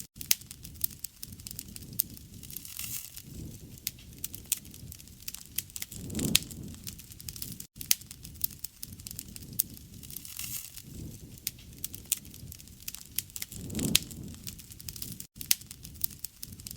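Wood fire crackling, with frequent sharp pops and snaps over a soft low rush of flames that swells now and then. The sound cuts out for an instant three times.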